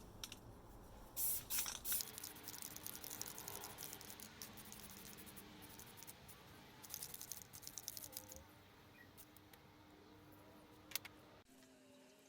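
Faint clicking and rattling of small hard parts being handled, in several bursts, with one sharp click near the end.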